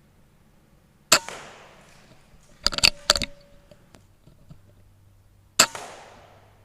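Two shots from a Theoben Rapid 7 PCP air rifle, one about a second in and one near the end, each a sharp crack with a short fading tail. Between them comes a quick cluster of sharp metallic clicks.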